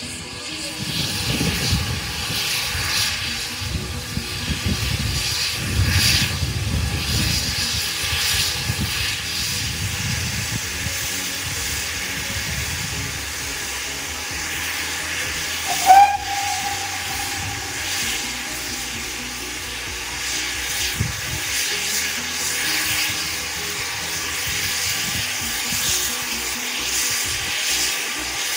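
Steam hissing from a GWR 57xx-class pannier tank locomotive as it moves slowly, with steam escaping around its cylinders. There is an irregular low rumble through the first half and one short whistle toot about halfway through.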